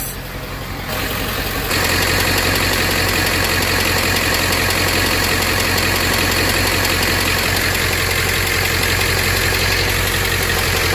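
Ford F350's 7.3-litre V8 diesel idling steadily, freshly started on new oil and a new filter, getting louder about two seconds in and then holding even.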